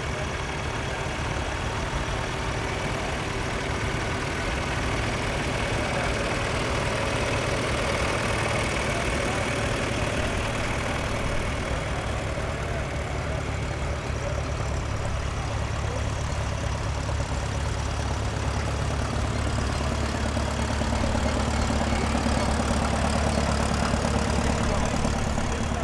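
Antique tractor engines running steadily at low speed, growing somewhat louder and deeper near the end.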